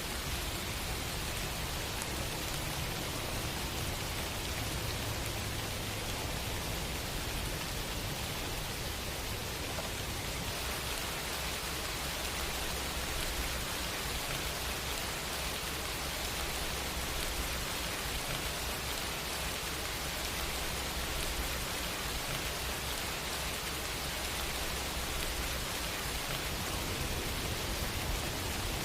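Steady rain falling, a continuous even hiss of many drops with no let-up.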